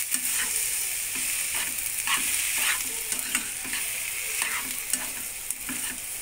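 Chopped tomatoes and onions sizzling in hot oil in a kadhai while a spoon stirs them, scraping the pan in repeated strokes about every half second.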